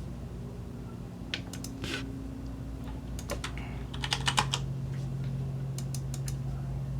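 Computer keyboard keys being typed: scattered single keystrokes with a quick run of key clicks a little past the middle, over a steady low hum.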